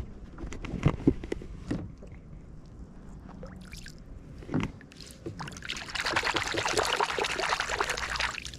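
A few scattered knocks and handling sounds on a kayak, then about two and a half seconds of water splashing and sloshing near the end.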